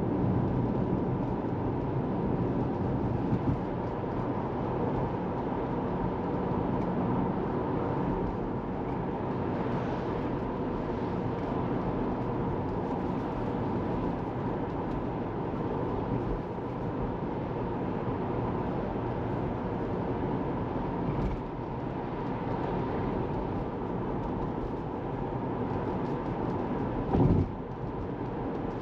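Steady road and tyre noise from a Tesla Model 3 on the move, with no engine note since the car is electric. A short loud thump sounds near the end.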